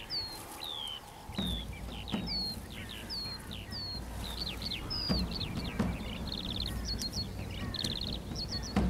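Songbirds calling in a field: a high whistle that slides downward, repeated roughly every half second, later joined by fast trills and short quick chirps from other birds, over a faint low rumble.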